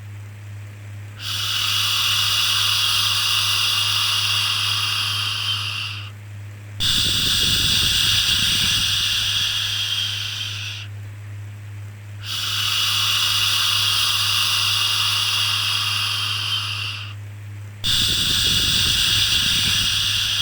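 Baby-soothing 'shhh' shushing, repeated in long even strokes of about five seconds each with a short pause between, four in all, over a steady low hum.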